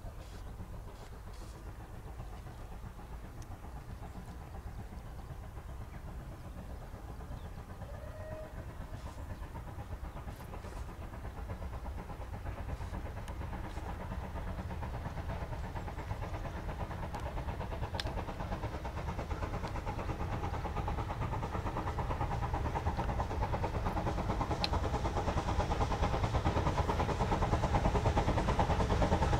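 A train approaching, its low rumble growing steadily louder.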